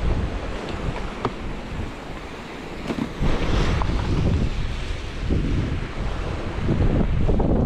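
Strong wind buffeting the microphone in uneven gusts over the wash of rough sea waves.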